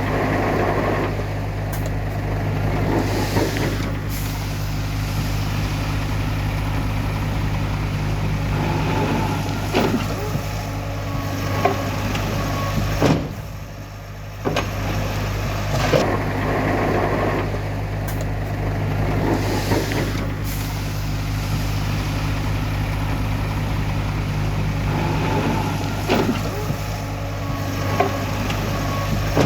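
Heavy diesel earthmoving machinery running steadily, with short sharp clanks and hisses at intervals. The engine noise drops away briefly about halfway through.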